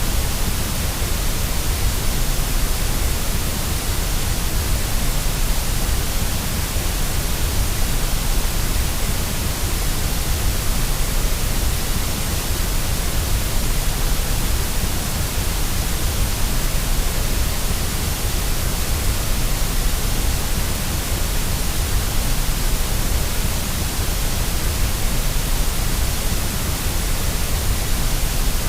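Steady, unchanging white-noise hiss with a low rumble underneath, played as a baby sleep aid.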